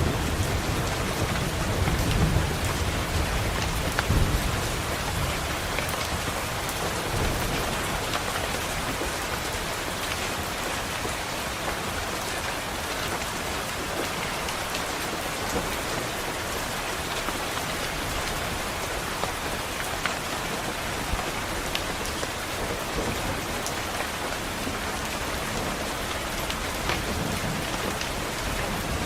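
Steady rain falling on a window, with scattered drop taps. A low rumble of thunder in the first few seconds fades away.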